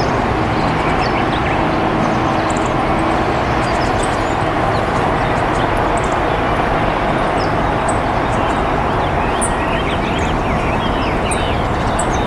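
Steady loud rushing background noise at a constant level, with faint, short high-pitched bird chirps scattered through it and a small flurry of chirps near the end.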